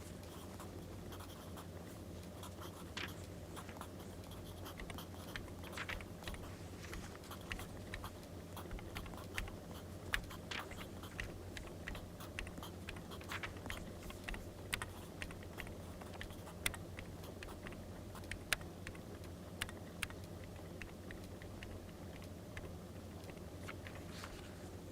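Wood fire crackling: irregular sharp snaps and pops over a steady low hum.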